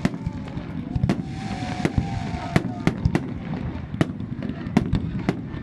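Fireworks salute: aerial shells bursting in a string of sharp bangs at irregular intervals, about two a second, over a steady low crowd murmur.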